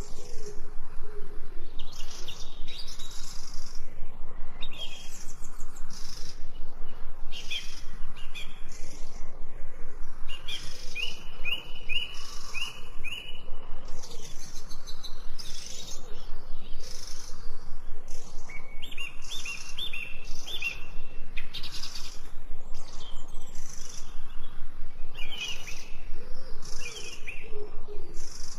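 Several birds chirping and singing together, a dense mix of short high notes, with runs of quick repeated notes about a third of the way in and again past the middle.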